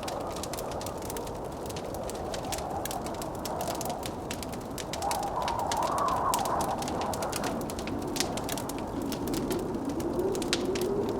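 Wood fire crackling with many sharp pops, over blizzard wind howling; the wind swells louder about halfway through, then sinks lower in pitch.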